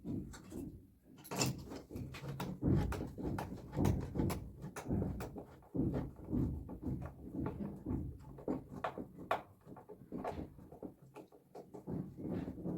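An irregular run of knocks and clatter, several a second, from hands and tools working on a washing machine's metal and plastic parts.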